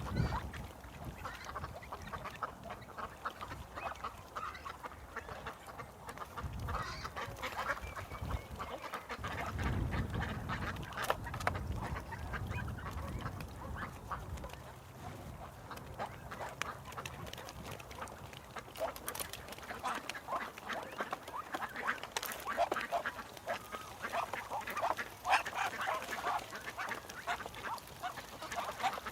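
Ducks quacking: many short calls overlapping, getting busier in the last third.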